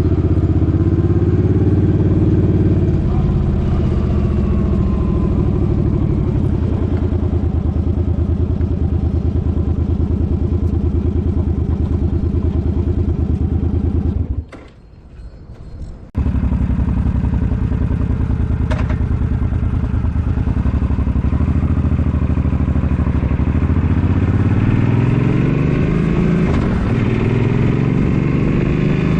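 Suzuki Boulevard M50's V-twin engine running steadily under way. The sound cuts out for about a second and a half midway, and near the end the engine pitch climbs as it accelerates.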